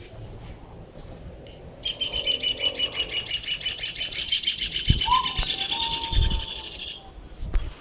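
A bird chirping in a fast, even trill for about five seconds. Partway through, a kitten gives a long thin mew. A few soft low thumps sound near the end.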